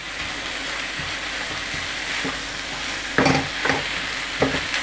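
Minced meat filling with spices frying and sizzling in a frying pan, its moisture cooked off, while a spatula stirs and scrapes through it. A few short knocks of the spatula against the pan come in the second half.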